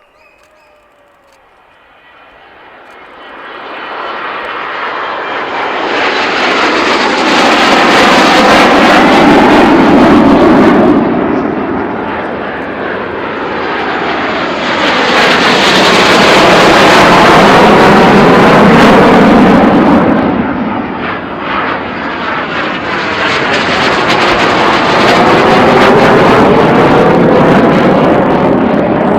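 Red Arrows' BAE Hawk T1 jets taking off in successive groups: jet engine noise builds from about two seconds in, then swells loudly three times as each group goes past, with a sweeping, phasing pitch.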